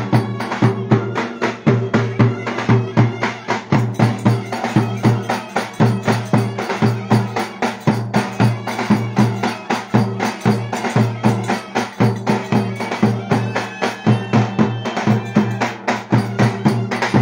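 Traditional Turkish wedding dance music played live by a band: a drum beats a quick, steady rhythm over a sustained low drone and a melody.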